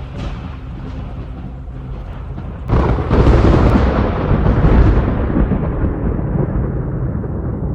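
Thunder: a low rumble, then a sudden loud thunderclap about three seconds in that rolls on and slowly fades.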